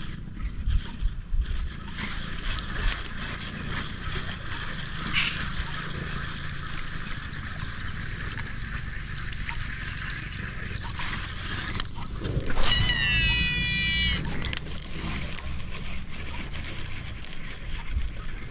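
Wild birds calling: short rising chirps here and there, a longer intricate warbling call about two-thirds of the way in, and a quick run of about seven rising chirps near the end, over a steady background hiss.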